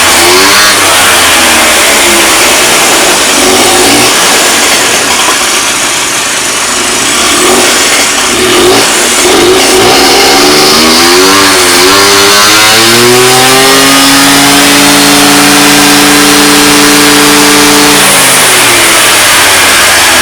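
Honda Dio ZX scooter's 50 cc two-stroke engine running, revved up and down several times, then held at a steady high rev for about four seconds before dropping back.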